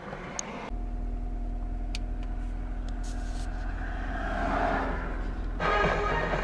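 Car driving: a steady engine and road drone that comes in abruptly under a second in and swells as it speeds up around four seconds in. Background music joins near the end.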